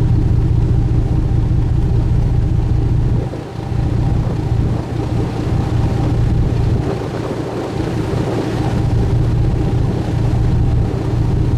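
Sightseeing cruise boat's engine running with a steady low drone, heard on board, with a short dip in level about three seconds in.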